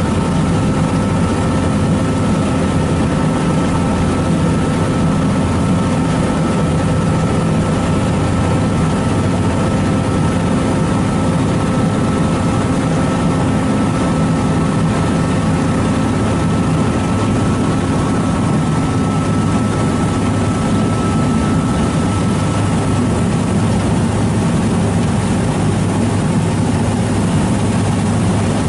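Ferry engine running steadily with a deep hum, plus a thin steady whine that fades out near the end.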